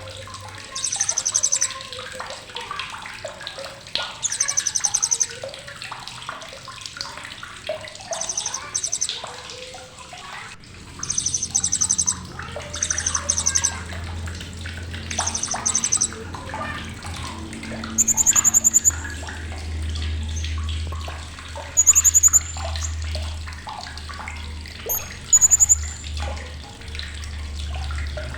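Blue-crowned hanging parrot (srindit) giving sharp, high-pitched rapid-fire chattering calls in bursts of about a second, repeated every few seconds, with shorter high chirps later on. Underneath is a background of faint chirps and hiss, and a low hum comes in about a third of the way through.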